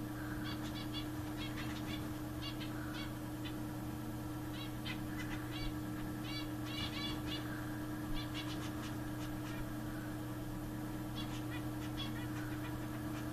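Zebra finches calling: short, repeated chirps that come in clusters all through, over a steady low hum.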